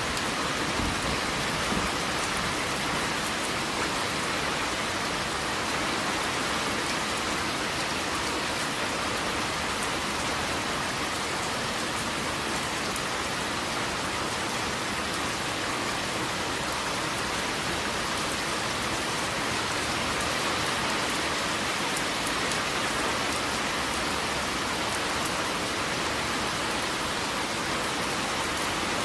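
Steady rain falling on a surface, an even hiss with fine drop patter and no thunder.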